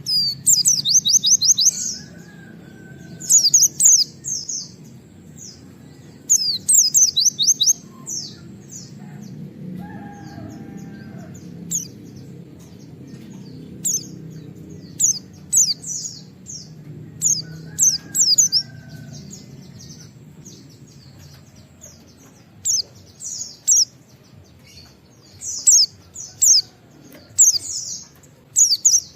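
White-eye (pleci) singing: bursts of fast, high, rapidly repeated 'wit wit' notes, the longest trills in the first eight seconds, then shorter scattered chirps, over a faint low steady hum.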